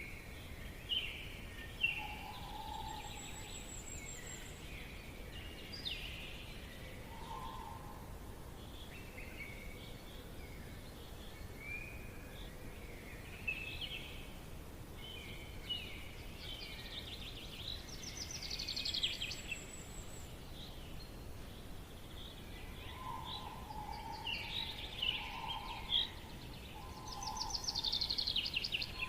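Forest ambience: several birds singing and calling, with a fast high trill about two-thirds of the way in and another near the end. A lower call repeats about four times in the last seconds, and a steady low hiss runs underneath.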